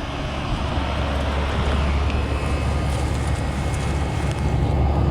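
Bryant central air-conditioner condensing unit running in cool mode: a steady low compressor hum under the rush of the condenser fan, growing louder toward the end.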